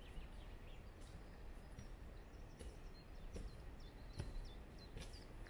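Faint outdoor ambience with a low steady rustle, a small bird chirping in a quick run of short high notes about halfway through, and a few soft footfalls on a grassy trail.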